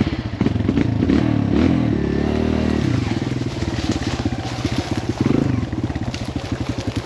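Kawasaki KLX140L dirt bike's single-cylinder four-stroke engine running. It is revved briefly in the first few seconds, then settles into a steady, pulsing low-rev run. The rider says it did not sound good and fears he has damaged the engine.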